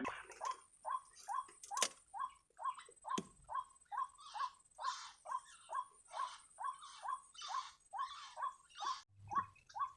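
White-breasted waterhen calling, a monotonous string of short harsh "kwak" notes, each sliding down in pitch, about two and a half a second. A single sharp knock sounds about two seconds in.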